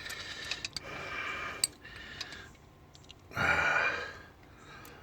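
A man breathing out heavily twice, the second breath louder, with a few light clicks as he works a wrench on an engine nut.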